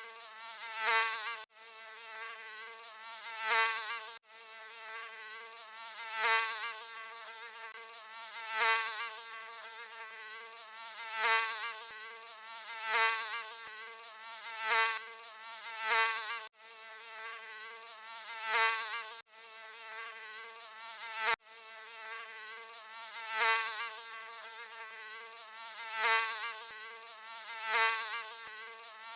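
Mosquito wing whine: a thin, high buzz that swells louder about every two and a half seconds, as if flying close past, then fades back. A few sudden, very brief breaks interrupt it.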